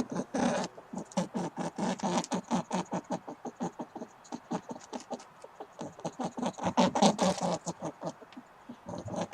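Domestic animal calls: a rapid, uneven run of short, low calls, thickening into denser stretches about two seconds and seven seconds in.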